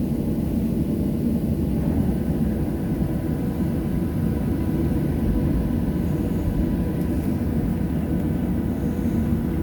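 Steady low rumble heard inside a Boeing 737-700's passenger cabin at the gate, with a faint steady whine under it.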